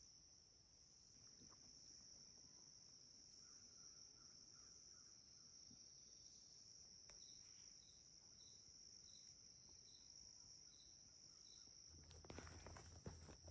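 Faint evening insect chorus: crickets giving a steady high-pitched trill, with a short series of faint, evenly spaced chirps about two a second in the middle. Brief rustling and knocks near the end.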